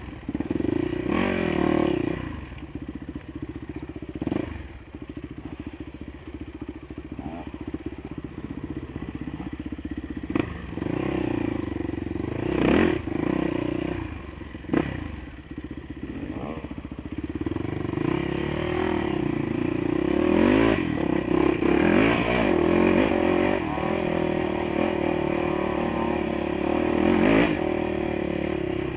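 Dirt bike engine running continuously while being ridden, its revs rising and falling as the rider works through a rough, freshly cut track.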